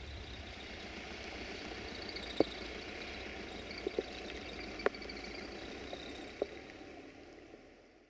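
Steady rain falling, with a handful of sharp drips of water striking close by, fading out near the end.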